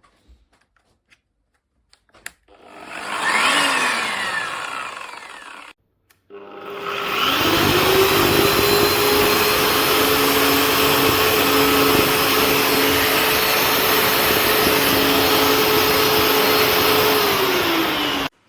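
Electric drywall sander with dust suction running. A short run spins up and winds down; a second start spins up to a steady whine over a loud rush of air and runs evenly for about ten seconds, then begins to wind down and cuts off near the end.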